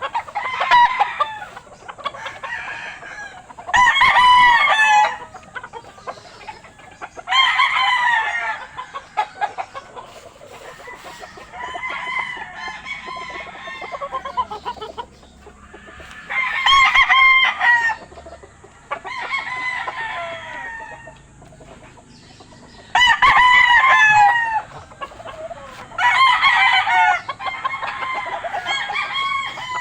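Rooster crowing again and again: about six loud crows, each a second or so long, with quieter clucking and calls between them.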